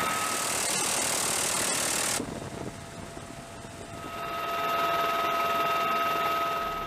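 Helicopter turbine engine running: a steady mechanical hum with a high, steady whine. It cuts off abruptly about two seconds in to a quieter stretch, then the whine and engine noise return.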